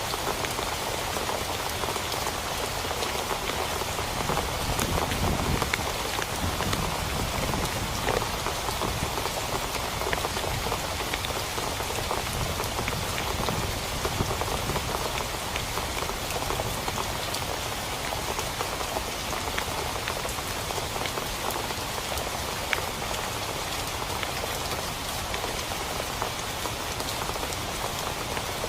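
Steady heavy rain falling on a tent, with many individual drops ticking sharply through the even hiss.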